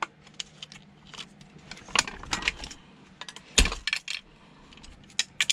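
Scattered metallic clicks and clinks of tools and parts being handled during a teardown, with a sharper knock about three and a half seconds in.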